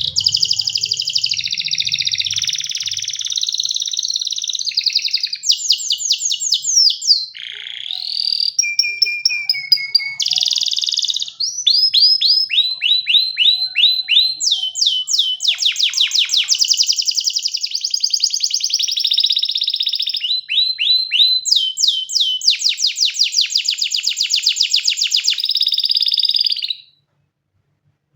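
Domestic canary singing a long, loud song of fast trills and rapid runs of repeated notes that change every second or two, stopping abruptly near the end.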